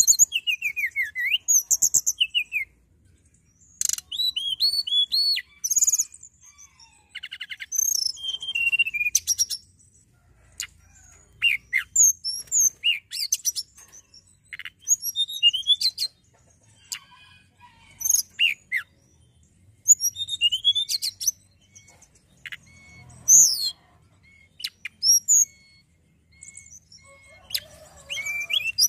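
Tledekan gunung songbird singing a long run of short, high whistled phrases: quick rising and falling sweeps mixed with fast rattling trills, each phrase broken off by a brief pause.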